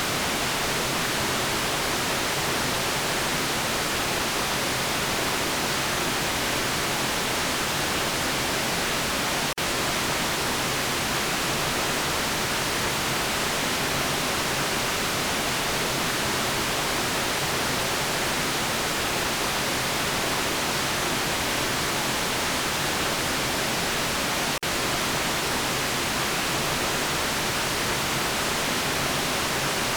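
Steady white noise, an even hiss spread across high and middle pitches, with two momentary dips, about ten seconds in and again about fifteen seconds later.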